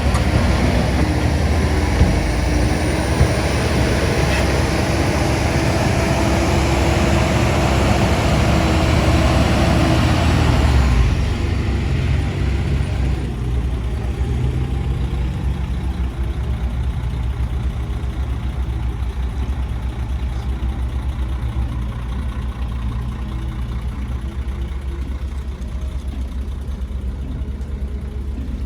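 Heavy diesel engine of earth-moving machinery running hard with a loud rushing noise on top. About eleven seconds in it eases off to a quieter, steadier low run.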